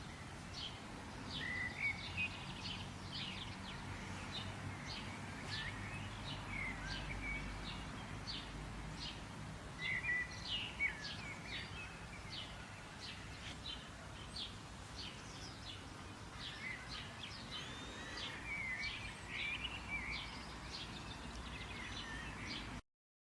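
Birds chirping: many short, quick chirps with a few rising and falling whistled notes, over a steady low rumble.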